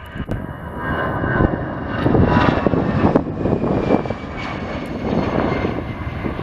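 Jet airliner's engines passing close by: a loud rushing noise that builds over the first couple of seconds and holds, with a high whine sliding slowly down in pitch.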